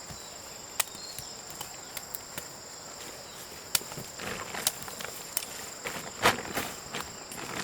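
Steady high-pitched insect chorus holding two even tones, with scattered sharp clicks throughout and a run of louder knocks and scrapes from about four to seven seconds in, the loudest just past six seconds.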